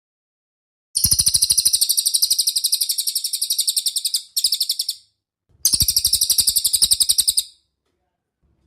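A bird call repeated very fast and evenly, about a dozen high chirps a second, as a rapid trill. It comes in three bursts: a long one starting about a second in, a short one, then another lasting about two seconds.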